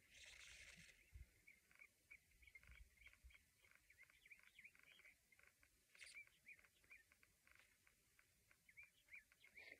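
Near silence with small birds chirping faintly and repeatedly in the distance. A brief hiss in the first second and a single sharp click about six seconds in.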